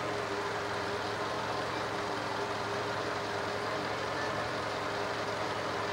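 Seat 1.6 petrol four-cylinder engine idling steadily, with no revving.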